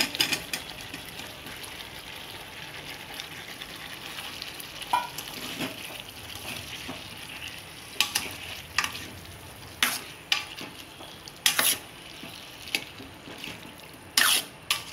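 Thick tomato-onion masala gravy sizzling in a stainless steel kadai as boiled potato pieces are tipped in and stirred, with a steady frying hiss. A metal spatula knocks and scrapes against the pan several times.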